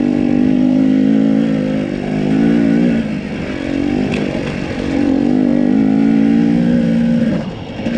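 Husqvarna TE250i single-cylinder two-stroke enduro motorcycle engine running under changing throttle, its pitch climbing and falling in several waves. The revs drop off sharply near the end.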